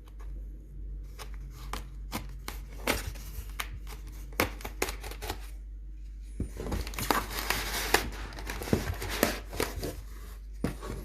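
Packing material being handled and pulled apart during unboxing: scattered clicks and taps, then a longer stretch of crinkling and tearing in the second half.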